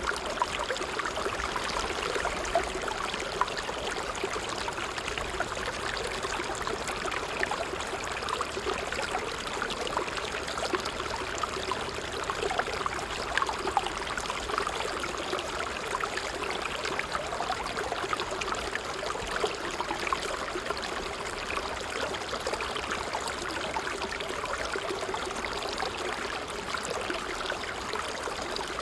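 Water trickling steadily over stones in a shallow stream, a continuous babble flecked with small irregular splashes and drips.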